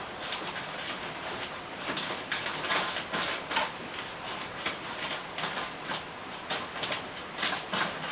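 Irregular rustling with many soft clicks and knocks, like gear or clothing being handled.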